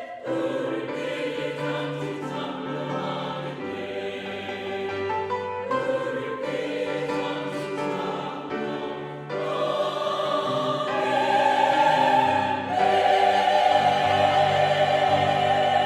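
Church choir singing a hymn in parts, sustained notes moving chord to chord, swelling about ten seconds in and ending on a loud, long-held final chord.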